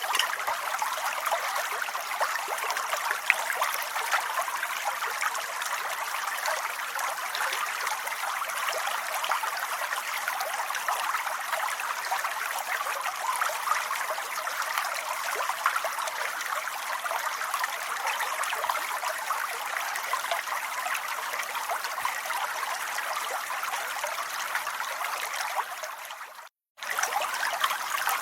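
Steady rain, a dense even hiss of falling drops, that cuts out completely for a moment near the end and then resumes.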